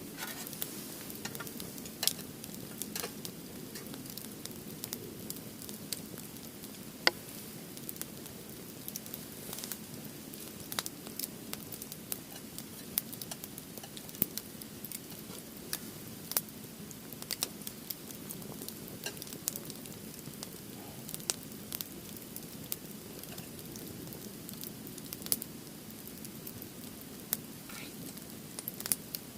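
Firewood burning in a fire grill, crackling with irregular sharp pops over a steady low hiss of the flames.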